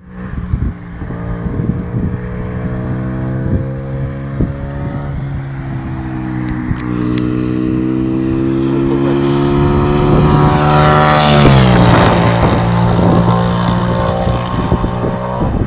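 Aprilia RSV Mille R's V-twin through an Akrapovic titanium exhaust, running under way: the engine note climbs slowly as it pulls, then drops sharply about eleven and a half seconds in and holds steady. Wind rushes over the microphone around the drop.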